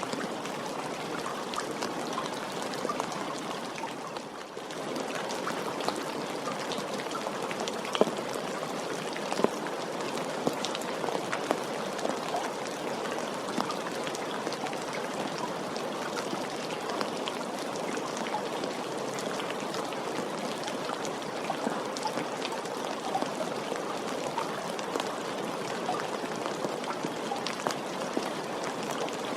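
Steady rain, with individual drops ticking sharply through the even hiss; it briefly drops in loudness about four seconds in.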